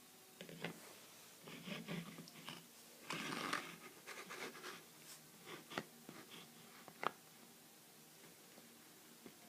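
Scattered scratching and crunching noises with a few sharp clicks, the loudest of them a little after halfway, then only faint room noise for the last couple of seconds.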